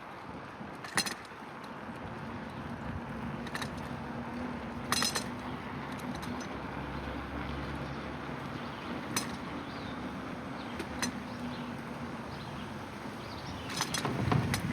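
Bicycle on the move: steady rolling noise with sharp metallic clinks and rattles from the bike every few seconds, the busiest cluster near the end, and a faint low hum through the middle.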